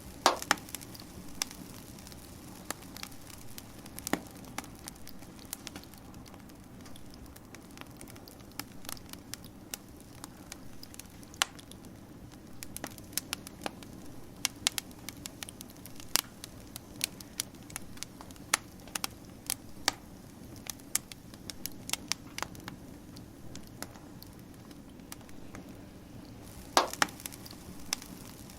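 Wood fire crackling: irregular sharp pops and snaps over a steady low rumble, with louder pops just after the start and again near the end.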